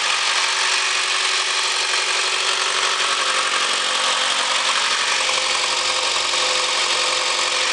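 Mitsubishi 4B11 2.0-litre four-cylinder engine idling steadily.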